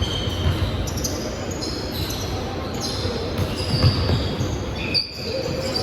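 Sneakers squeaking and a ball bouncing on an indoor court during play: short high squeaks come every second or so, over low thuds and hall noise.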